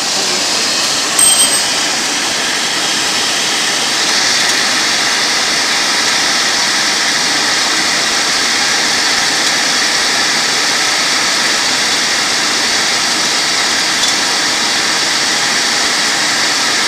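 Intermac Diamut grinder running, its wheel grinding a diamond tool with a steady high hiss. A brief high-pitched ring comes about a second in.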